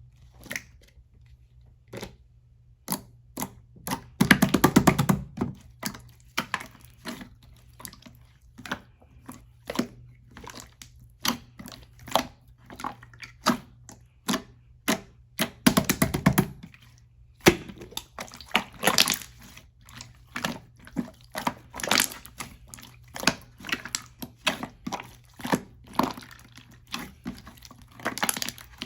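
Clear slime being squished and pressed by hand: sticky clicks and small pops. About four seconds in and again about fifteen seconds in come longer stretches of fast crackling.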